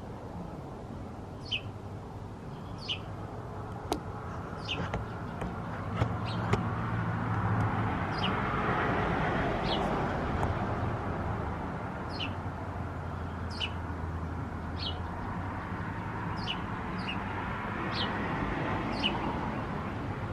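A small bird repeating one short, high, falling chirp, roughly once every second or so, over a low background rumble that swells in the middle and fades again.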